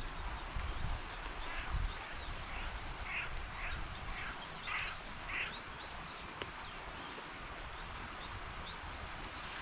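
A bird giving a run of about seven short, harsh calls over a few seconds, with faint chirps of small birds around it. A low rumble of wind on the microphone comes in the first couple of seconds.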